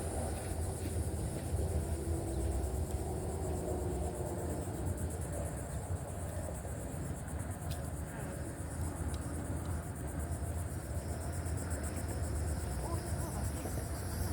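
A steady, high-pitched buzzing of insects, with a fine fast pulse, over a continuous low rumble.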